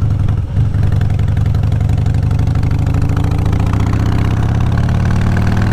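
Motorcycle engine running under way, heard through a helmet-mounted mic over heavy wind rumble. About halfway through the engine note starts to climb slowly and steadily as the bike gathers speed.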